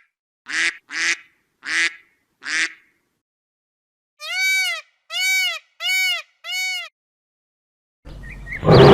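A duck quacking four times in quick succession, followed by four clear, evenly spaced calls that each rise and fall in pitch. A steady background hiss of outdoor noise starts near the end.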